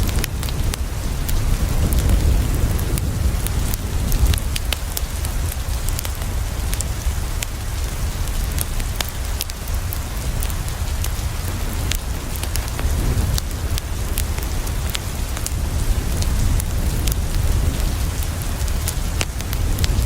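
Steady rain falling, with a deep low rumble and frequent sharp crackles of a wood fire scattered throughout.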